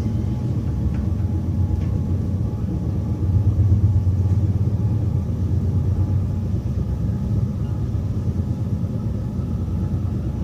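Steady low rumble of a train running, heard from inside a passenger carriage, a little louder about four seconds in.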